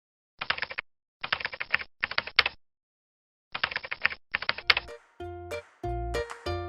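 Rapid computer-keyboard typing in five short bursts of clicks. A bright tune of pitched, chime-like notes starts about five seconds in.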